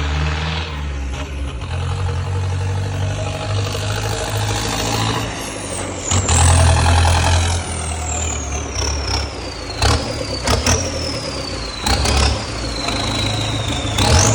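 Fiat 8090 tractor's turbo diesel engine running, then blipped several times. Each rev brings a high turbo whistle that jumps up and slowly falls away as the engine drops back.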